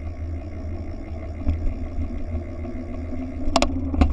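Wind buffeting the microphone of a moving bike camera, a deep steady rumble, with two sharp clicks near the end.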